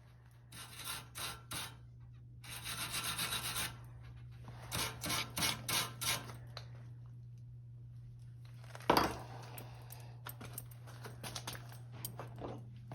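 Short runs of quick rubbing strokes on a workpiece, like hand sanding or filing. There is a single sharp knock about nine seconds in, then a few light taps, over a steady low hum.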